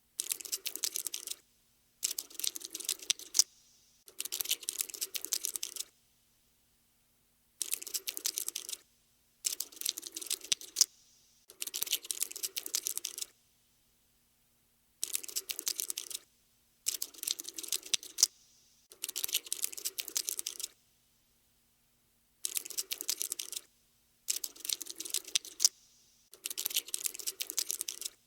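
Cockroach scuttling sound effect: bursts of rapid, dry, tiny clicks, each about a second and a half long, repeating about a dozen times with short silent gaps between.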